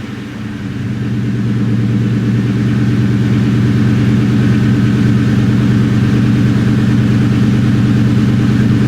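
New Edge Ford Mustang GT's 4.6-litre two-valve V8 idling steadily just after a cold start. The engine note is low and even, settling in level during the first couple of seconds.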